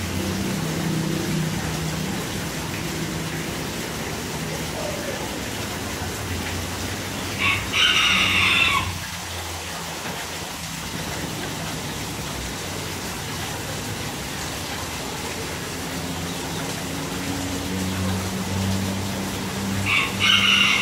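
Two loud bird calls, each just over a second long, one about seven seconds in and one near the end, over a steady low hum.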